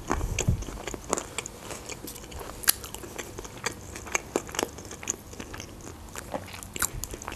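A person chewing a mouthful of crispy baked potato wedge, with irregular crunches and mouth clicks.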